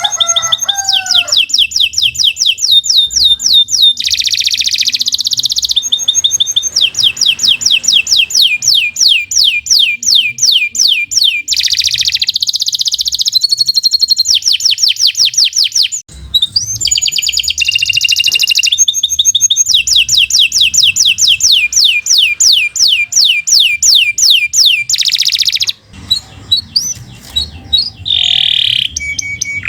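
Domestic canary singing a long, continuous song of rapid trills: fast runs of repeated down-sweeping notes that switch from one trill type to another every few seconds, broken by brief pauses about halfway and about two-thirds through.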